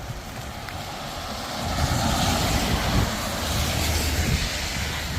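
A passing vehicle: a low engine rumble and rushing noise that swell about two seconds in and hold for a few seconds.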